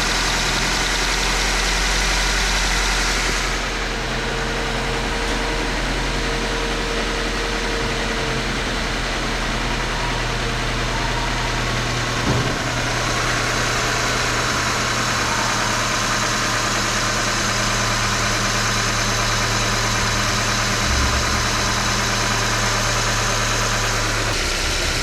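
Subaru Impreza's FB16 1.6-litre flat-four engine idling steadily, with one short knock about halfway through. The owner suspects something is wrong with the engine but names no fault.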